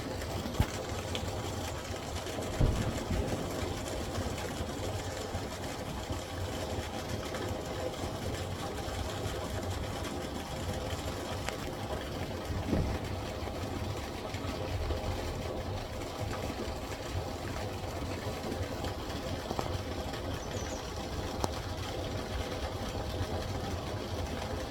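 A steady machine hum, with a few brief knocks over it.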